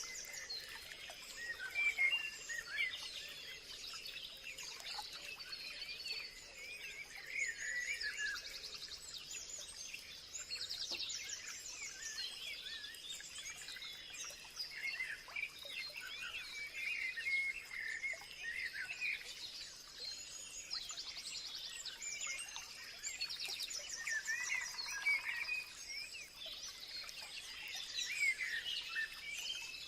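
Chorus of many small birds chirping and calling over one another, with rapid trills now and then. A faint steady high tone sits beneath the calls throughout.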